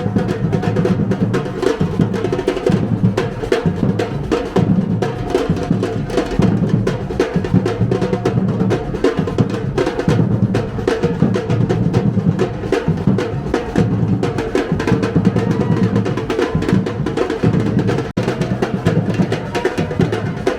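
Music driven by drums: fast, dense drumming at a steady loudness, with a brief drop near the end.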